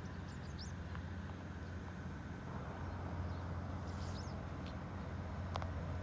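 Scattered short, high chirps of small birds, a couple near the start and several more about four to six seconds in, over a steady low hum.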